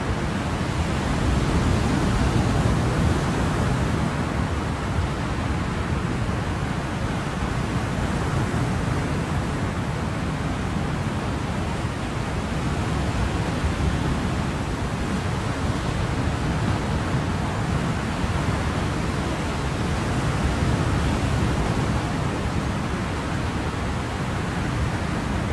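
Ocean surf: a continuous wash of waves, heavy in the low end, swelling gently a couple of times.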